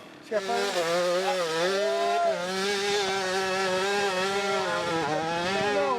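Motorcycle engine held at high revs, loud and steady with small rises and falls in pitch, starting suddenly about a third of a second in.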